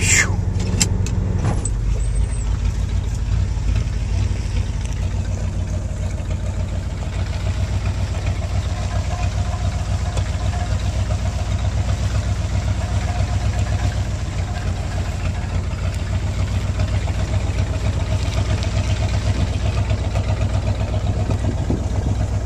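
Ford truck engine running steadily under load as it drags a tree uphill. A faint steady whine rides over the engine for several seconds in the middle.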